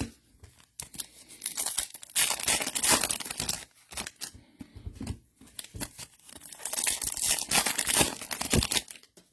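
Trading card pack wrappers being torn open and crinkled by hand, in several rough ripping stretches.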